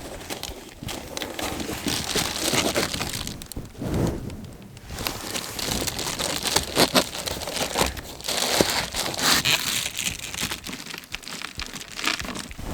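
Reflectix foil-faced bubble insulation crinkling and crackling as a cut panel is handled and pressed into a truck window, with a few light knocks.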